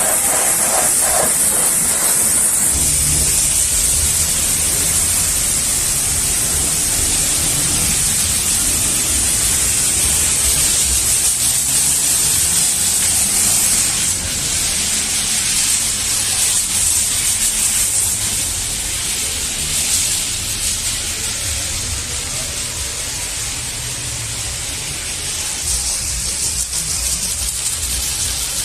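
High-pressure washer jet spraying a car: a steady hiss over a low hum, easing off slightly about halfway through.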